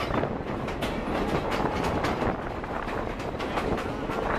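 Railroad passenger cars rolling along the track, the wheels clacking over the rail joints.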